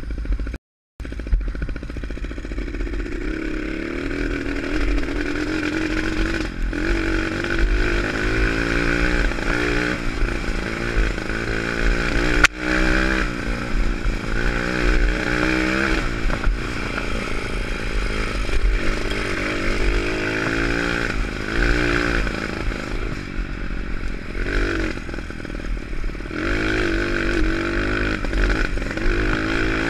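Pit bike's single-cylinder four-stroke engine revving up and dropping back repeatedly as it is ridden, the pitch climbing and falling many times over, under a steady low rumble. A sharp click about halfway through.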